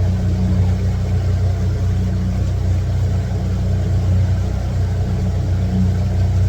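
Small boat's motor running steadily at a constant speed, a low even hum with a faint wash of noise over it.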